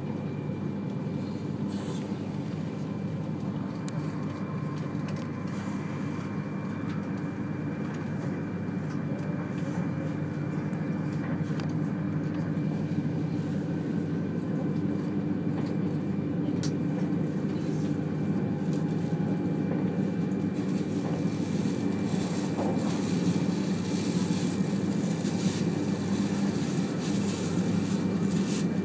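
Running noise of a 200 series Shinkansen train, heard inside the passenger car: a steady low rumble from wheels and track with a faint high whine above it. It grows louder and rattles more from about two-thirds of the way through.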